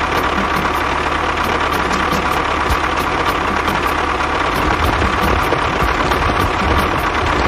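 Mini tractor's motor running steadily, a continuous mechanical drone with a constant mid-pitched whine.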